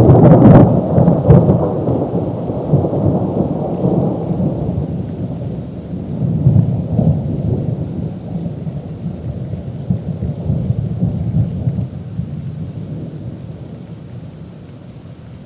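Close thunder: a sharp crack right at the start, then a long rolling rumble that swells twice more and slowly dies away.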